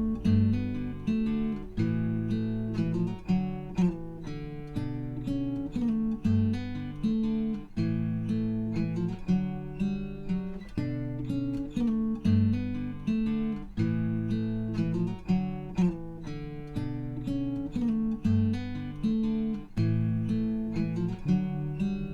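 Background music: acoustic guitar playing plucked and strummed chords in a steady, repeating pattern.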